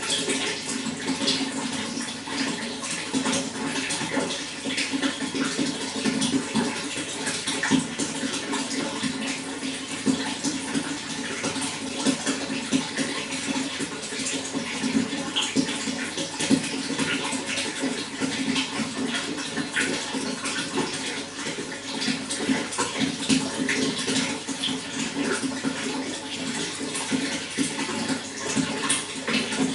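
Running water flowing and splashing steadily, a continuous rush with many small splashes and droplets.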